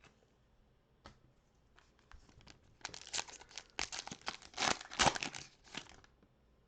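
Foil wrapper of a trading card pack being torn open and crinkled, a few light clicks first and then about four seconds of crackling that peaks near the middle.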